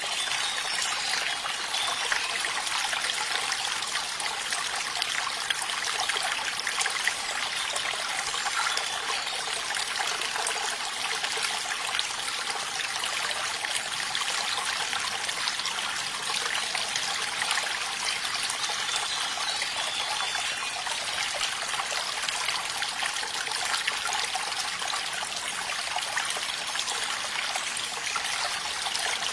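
Running water trickling steadily, like a small stream, with a constant splashing hiss and no change throughout.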